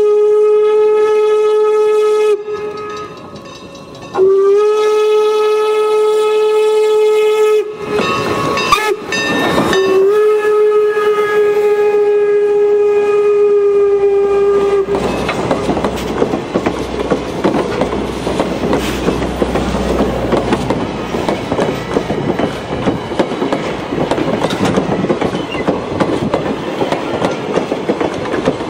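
Steam locomotive whistle blowing the grade-crossing signal, long, long, short, long, the last blast held about five seconds. The train then passes close by: a heavy rumble with the clatter of the cars' wheels over the rail joints.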